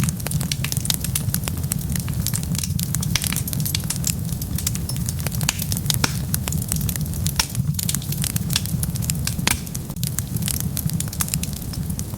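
Wood fire burning with a steady low rumble and frequent sharp pops and crackles of burning wood.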